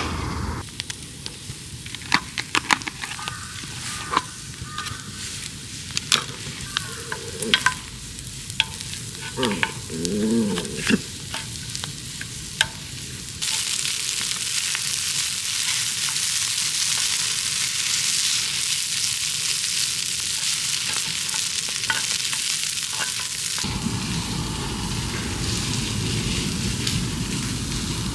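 Cooking sounds: a string of light clicks and taps of utensils on cookware, then a steady sizzling hiss of food frying on a hot griddle from about halfway in.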